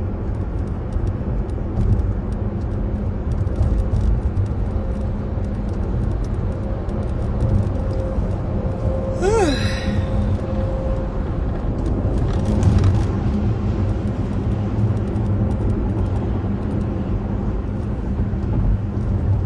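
Steady low rumble with a faint hum running under it, and a brief rising-and-falling squeak about nine seconds in.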